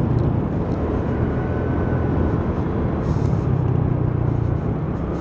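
Piaggio Liberty 150 scooter's single-cylinder engine and belt transmission running steadily at a slowed road pace, with a faint high whine that rises slowly in pitch twice, mixed with wind and road noise. The Malossi variator and drive belt are freshly fitted, and this is a check of how loud the drive is.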